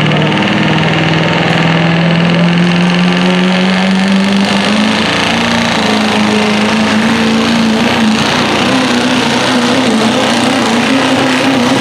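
Diesel pulling truck's engine running hard under load, its pitch climbing slowly and steadily.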